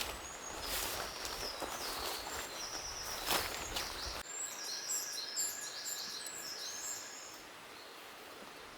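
Rustling and a few light knocks, then an abrupt change about four seconds in to small birds singing short, high chirping phrases over quiet forest ambience.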